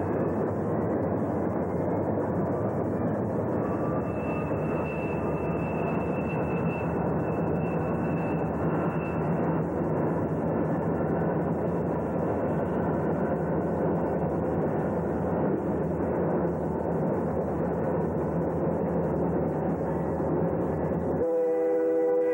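A train running by with a steady, loud rumble of engines and wheels. About a second before the end it cuts abruptly to a train horn sounding a held chord.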